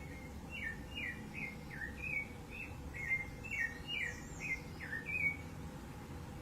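Rufous-bellied thrush (sabiá-laranjeira) singing a phrase of about a dozen short whistled notes, many sliding down in pitch. The song stops about a second before the end.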